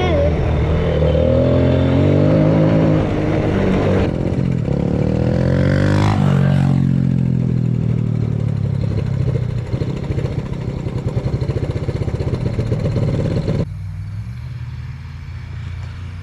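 Small off-road engine of a quad or pit bike running and being ridden, its pitch rising and falling with the throttle, then dropping away abruptly a couple of seconds before the end.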